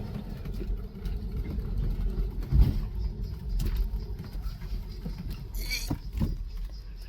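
A vehicle driving along with a steady low rumble. A single knock comes about two and a half seconds in, and a short high squeal near six seconds.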